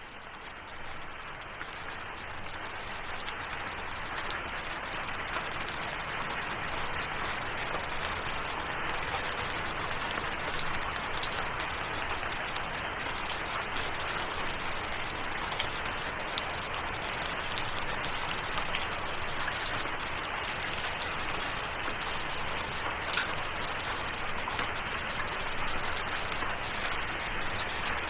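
Steady rain with many fine drop ticks, fading in over the first few seconds and then holding level.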